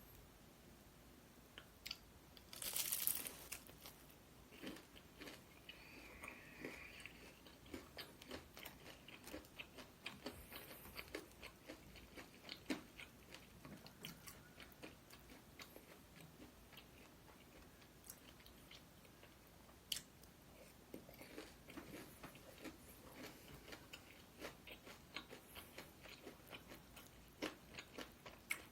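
A person eating close to the microphone: chewing and biting, with many small wet mouth clicks throughout and a louder crunchy burst about three seconds in.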